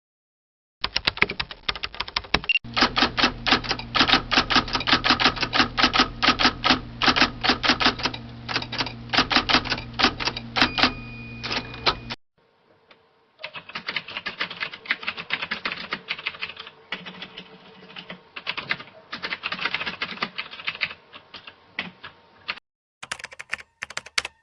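Fast typing on a computer keyboard: rapid, uneven key clicks in several separate takes joined one after another, with short silent breaks. The loudest take, up to about twelve seconds in, has a steady low hum under the clicks.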